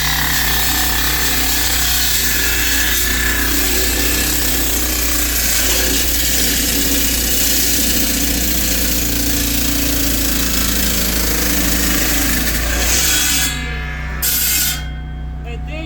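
Handheld concrete saw with a 20-inch blade cutting wet, about five inches deep into a concrete slab, a steady grinding over the engine hum. The cutting stops a little after thirteen seconds, with a brief burst soon after, leaving the saw running quieter.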